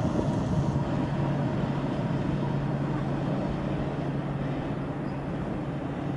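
Freight train of tank wagons rolling away over the rails, a steady rumble with a low hum that slowly fades.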